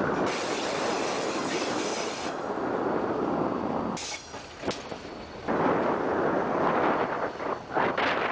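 Train passing close by behind diesel locomotives: a loud, steady rumble of wheels on the rails with faint squeal, which dips briefly about four seconds in. From about five and a half seconds a loud, rough rushing returns, with wind buffeting the microphone.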